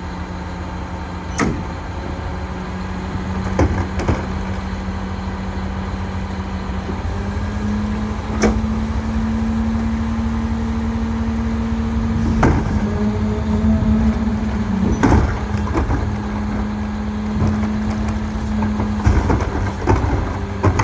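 Mack Granite garbage truck's engine running steadily; its pitch steps up about seven seconds in and drops back near the end as the New Way King Cobra rear loader's packer cycles. Sharp metal clanks and knocks come every few seconds.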